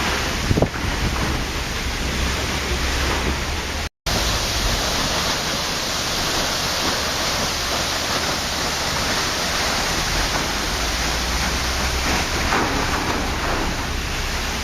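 Waterfall: a steady rush of falling water, which cuts out completely for an instant about four seconds in.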